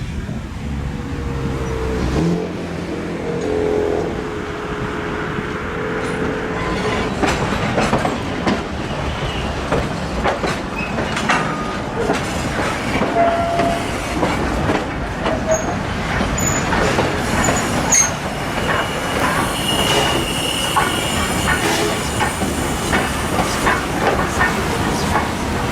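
Steam-hauled train of eight carriages running on the rails: a continuous rumble with many clicks of wheels over rail joints and a few brief wheel squeals. A held tone sounds for about the first six seconds.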